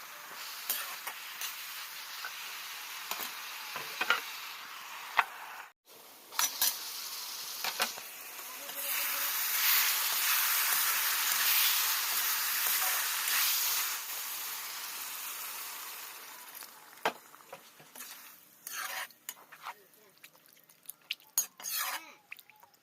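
Food sizzling in a frying pan while a utensil stirs and knocks against it. The sizzle swells louder for about five seconds in the middle, then dies down, and near the end only scattered clinks of metal on the pan are left.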